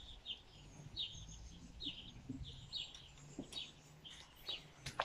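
A small bird chirping over and over, about two short chirps a second, with a sharp click near the end.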